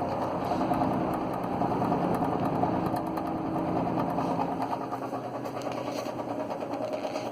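Eskimo box fan motor running with a steady rattling, grinding bearing noise: its motor bearings are very bad. The hum tones fade and it gets slightly quieter about two-thirds of the way through.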